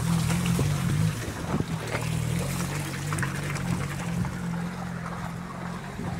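Maruti Gypsy 4x4's engine running steadily as it drives up a snowy road, with the tyres crunching and splashing through slush and grit.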